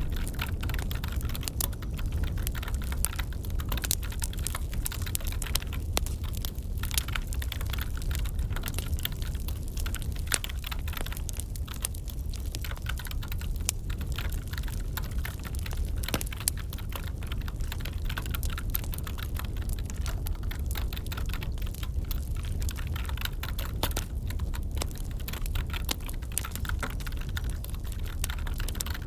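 Wood fire crackling in a fireplace: a steady low rumble with frequent, irregular small snaps and pops.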